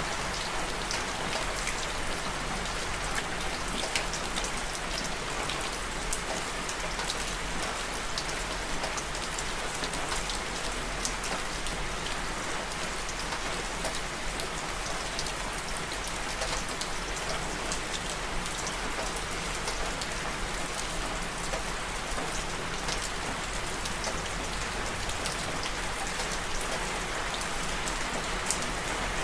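Steady rain falling on a surface, a constant hiss with many small scattered drop ticks.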